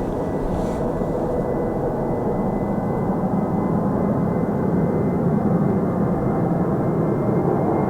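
Skymark Boeing 737-800 jet airliner's engines at takeoff power during its departure, a steady rushing roar that grows gradually louder.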